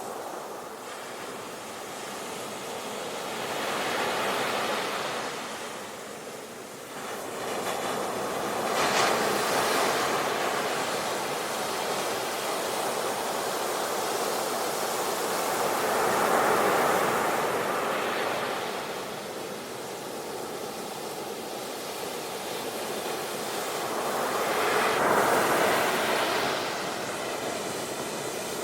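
Ocean surf: waves breaking and washing in, a steady rush that swells and ebbs four times, each surge several seconds apart.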